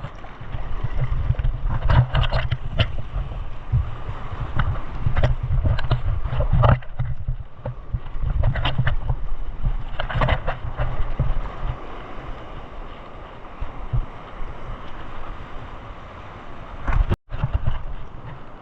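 Wind rumbling on the microphone over sea water washing and splashing, with a few sharper splashes or knocks. The sound cuts out for an instant near the end.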